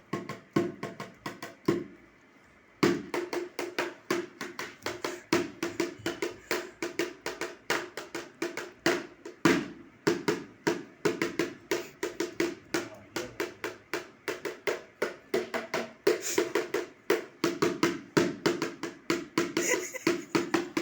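Drum beaten in a fast, even rhythm of about five strokes a second, each stroke ringing at the same pitch; the beating stops for a moment about two seconds in, then carries on.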